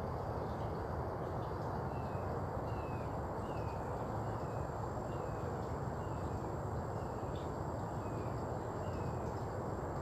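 Outdoor ambience: a steady low hum of background noise, with a bird repeating a short descending chirp about every three quarters of a second, and a faint steady high whine.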